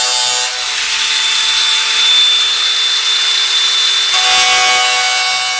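Angle grinder cutting out rusted sheet steel from a car tailgate, running continuously with a high whine; the tone of the cut shifts about half a second in and again near the end as the load changes.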